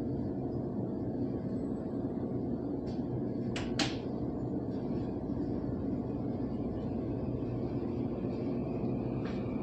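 Steady low rumble inside a Taiwan Railways local electric multiple-unit train running on the line, with two short sharp clicks about three and a half seconds in.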